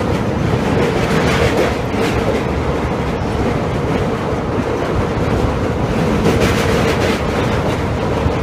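Indian Railways express train heard from on board while running: a continuous loud rush of wheels on rail with a steady hum and faint irregular clicks.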